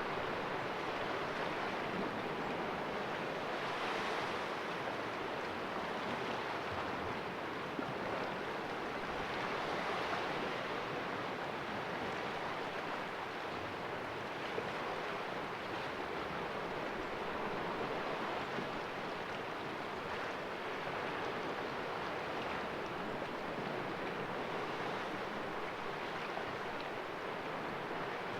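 Sea waves washing and splashing against rocks in a small cove, a steady surf wash that swells gently every few seconds.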